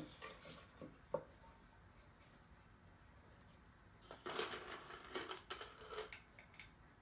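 Faint handling of cedar birdhouse pieces as the back panel is fitted: a few light wooden knocks, then about two seconds of scraping and rustling starting about four seconds in.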